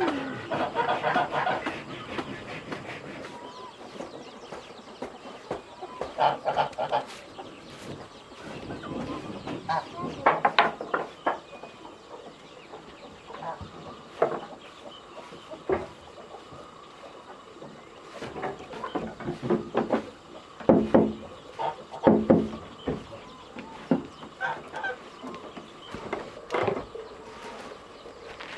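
Chickens clucking in short, irregular calls, some in quick clusters.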